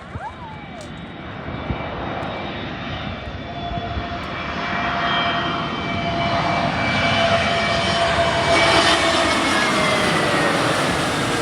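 Airbus A320 jet airliner passing close by: the engine noise builds to a peak about eight seconds in, with whining engine tones that slide down in pitch as it goes past.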